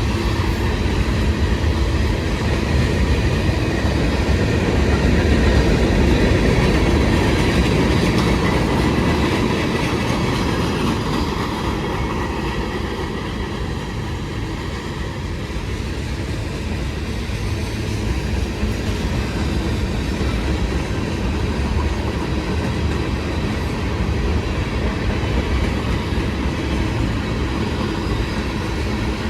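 A long CSX freight train rolling past on the rails, its cars giving a continuous rumble and clatter of wheels on track. It swells slightly a few seconds in.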